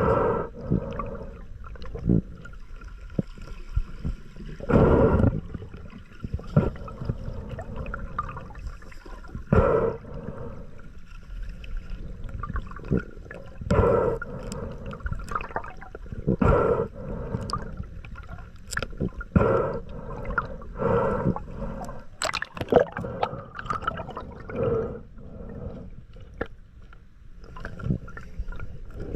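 Underwater gurgling and bubbling of water around a submerged camera, coming in loud bursts every two to three seconds over a steady low rumble.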